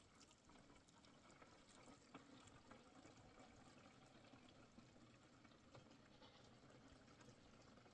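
Near silence: faint background hiss with a few tiny scattered ticks.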